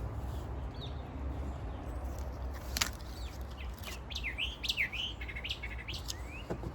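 Birds chirping, with short rising and falling calls clustered past the middle, and one sharp click about three seconds in, over a steady low background rumble.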